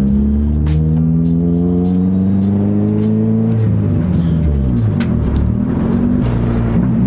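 Acura Integra's four-cylinder engine heard from inside the cabin while driving: revs climb steadily for about three seconds, then fall away and settle. Music plays over it.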